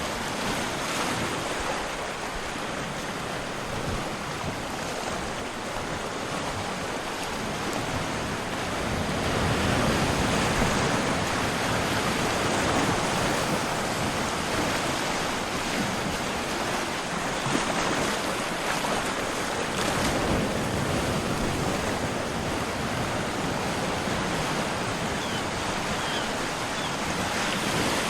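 Continuous rush of moving water, a dense hiss that swells louder about a third of the way in and again later before easing back.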